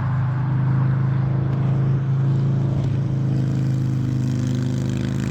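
Harley-Davidson V-twin motorcycle engine and exhaust running steadily at cruising speed, its note holding one pitch.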